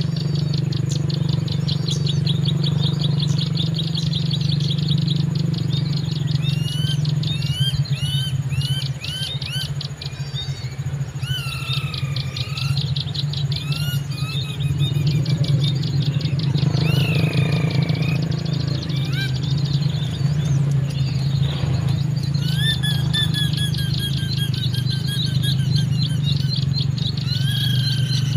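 Small birds chirping and calling repeatedly in quick, high-pitched phrases, over a steady low hum.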